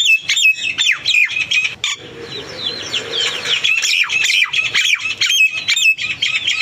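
Birds calling: a dense, loud run of short, sharp chirps and squawks, many overlapping and sweeping downward in pitch, thinning out briefly about two seconds in.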